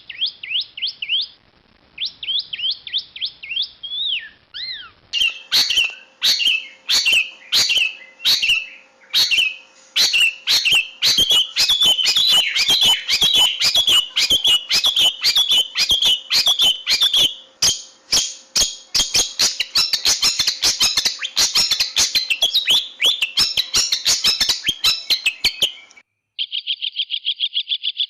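Long-tailed shrike (cendet) singing fast chattering runs of high repeated notes and slurred whistles. About five seconds in, the recording switches abruptly to a louder, denser passage laced with sharp clicks. Near the end it cuts to a fast, even trill.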